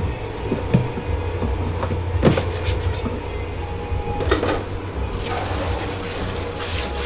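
Dish pit work sounds: crockery and pans knocking now and then over a steady low machine hum, then a rush of hissing water spray starting about five seconds in.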